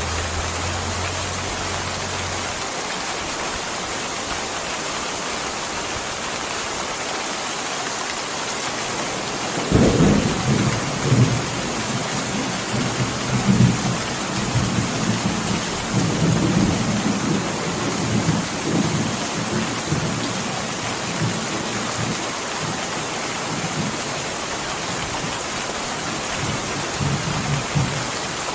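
Steady heavy rain, with thunder rolling in about ten seconds in: a low rumble that swells and ebbs in several peaks and dies away near the end.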